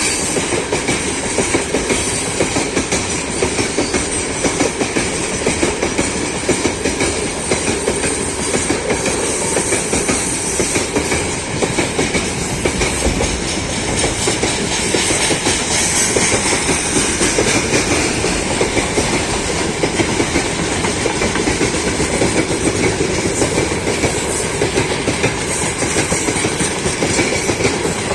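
A loaded freight train rolling steadily past, its wagon wheels clattering over the rails in a continuous rhythmic clack.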